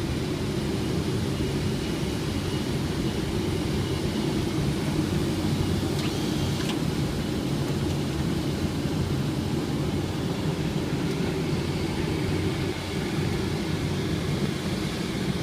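Steady cockpit noise of a Boeing 777 on final approach: a low rush of airflow over the nose and a hum from the engines, even throughout.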